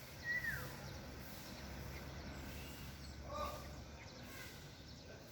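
Birds calling: a single short whistled note that slides downward about a third of a second in, then a brief, lower, fuller call a little after three seconds, over a steady low background rumble.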